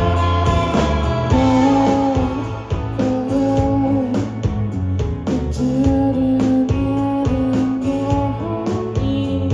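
Live rock band playing: electric guitar notes over bass and regular drum hits.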